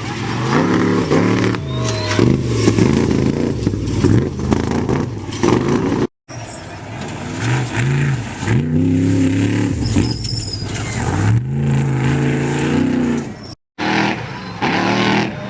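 Trophy truck race engines revving hard, their pitch climbing and dropping again and again as they shift and accelerate. The sound cuts out abruptly twice for a split second.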